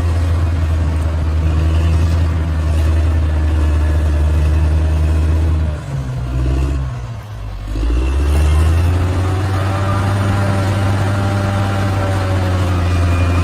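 Large bulldozer's diesel engine running steadily under load. Its note drops off briefly about six seconds in and climbs back up about two seconds later.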